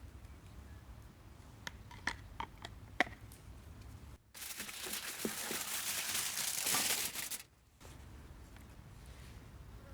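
A few light clicks, then about three seconds of loud crinkling, rustling noise that starts and stops abruptly.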